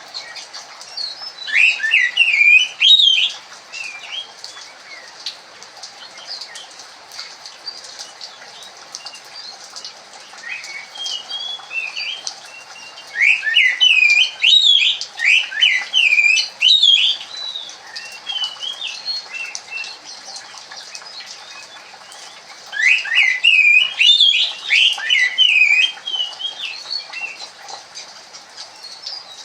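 Oriental magpie-robin (kacer) singing in three loud bouts of quick, varied whistled phrases, about a second in, around the middle, and again about two-thirds through, with softer scattered chirps between. This is the song that Indonesian bird keepers call 'keremun'.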